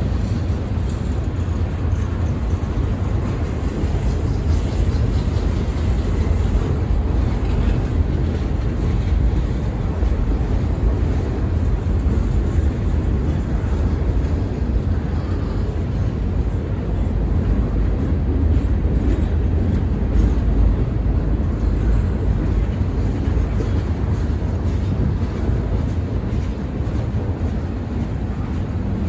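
Freight train rolling past, a steady low rumble of wheels on rail with no break.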